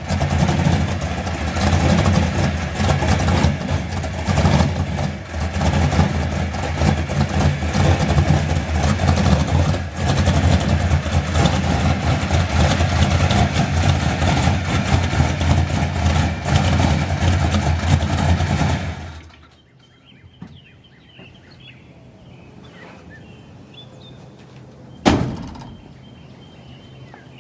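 A vehicle engine running steadily, then shut off about 19 seconds in. Quiet follows with faint bird chirps, broken by one sharp knock about 25 seconds in.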